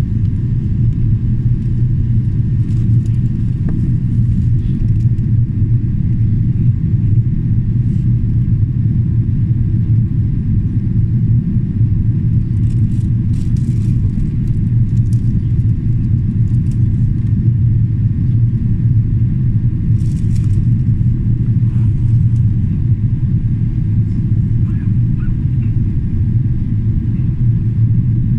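Steady low drone inside the cabin of a Boeing 777-300ER in flight on approach, from its two GE90 engines and the airflow over the fuselage. A few faint clicks or rattles come through about 13 and 20 seconds in.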